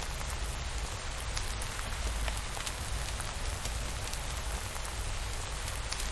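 Steady rain falling, an even hiss with scattered sharp ticks of single drops over a low rumble.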